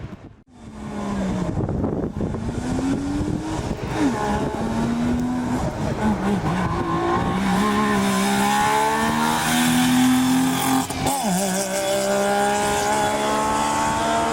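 Rally car engine accelerating hard through the gears as the car comes closer. The pitch climbs and drops back at each shift, and a sharp lift-off and re-acceleration comes about eleven seconds in.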